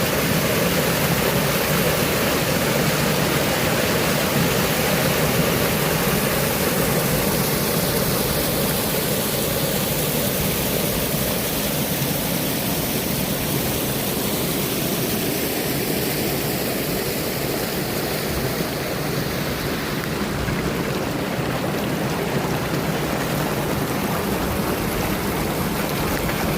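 Running water rushing steadily, like a stream or waterfall.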